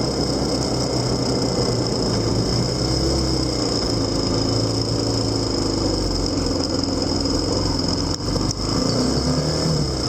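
Motorcycle engine running while riding, heard from on board, its pitch shifting up and down a little a few seconds in and again near the end, with a steady high whine over it.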